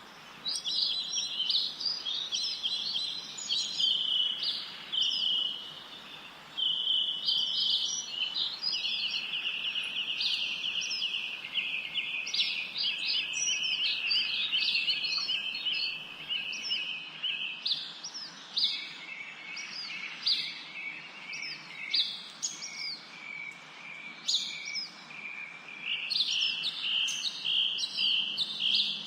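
Several small birds chirping and trilling continuously, many quick rapid-fire notes overlapping.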